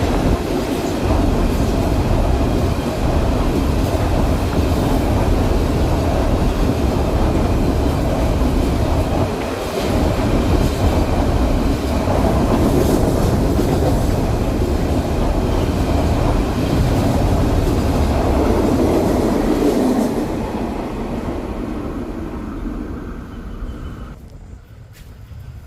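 Train running along the track past the station, a steady, loud rumble of wheels and cars that fades away over the last five seconds or so.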